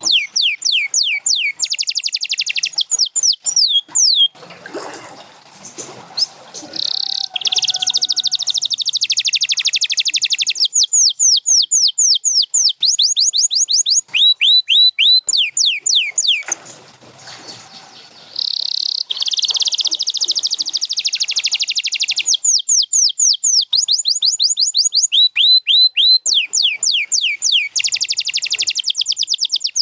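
Domestic canary singing: fast runs of repeated falling whistles and dense rolling trills, phrase after phrase, breaking off twice for a couple of seconds.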